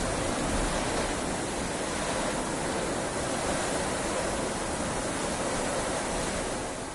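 Heavy rain falling steadily, a dense even hiss, easing slightly near the end.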